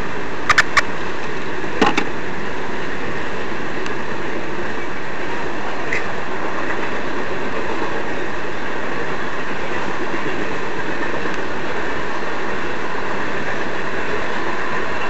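Union Pacific coal train's hopper cars rolling past a grade crossing: a steady, continuous rumble and rattle of steel wheels on the rails. There are a few sharp clicks in the first two seconds.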